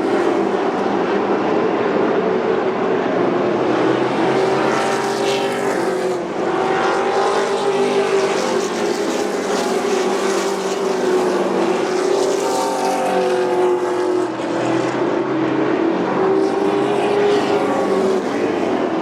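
Thunder Truck race trucks' engines running flat out around an oval track, a steady loud drone. Several times the pitch swells and drops as trucks go by.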